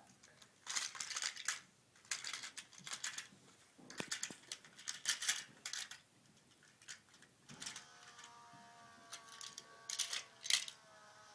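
Bursts of rapid light clicking and clattering, like toy train cars and trucks being pushed along a track. A steady tone of several notes comes in about two thirds of the way through.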